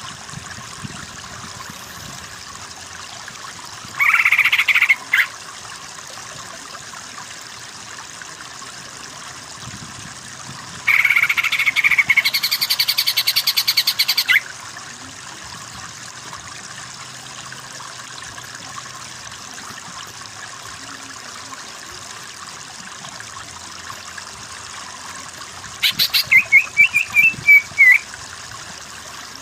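Green leafbird (cucak ijo) song in three bursts. There is a short phrase about four seconds in, a longer rapid pulsing trill in the middle, and a quick string of up-and-down notes near the end, all over a steady hiss.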